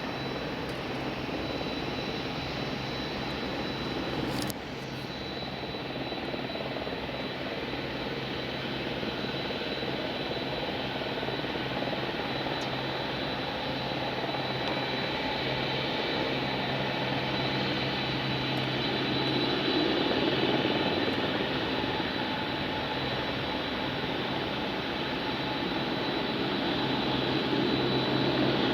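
Mitsubishi MRJ regional jet's Pratt & Whitney PW1200G geared turbofan engines running on a ground engine test: a steady rushing jet noise with a thin high whine over it, growing a little louder from about eighteen seconds in. A brief sharp click about four seconds in.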